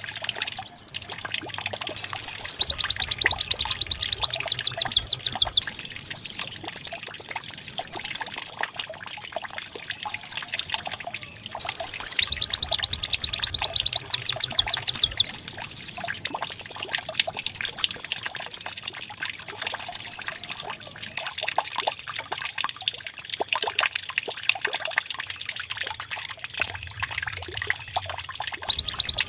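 White-eye (pleci) song with a canary-like delivery: long runs of fast, high trills and rolling warbles, played as a looped lure recording to prompt caged white-eyes to sing. The song breaks briefly twice, stops about two-thirds of the way through leaving only faint background sound, and starts again right at the end.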